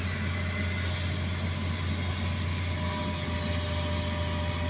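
Heavy truck engine running steadily with a deep, even drone.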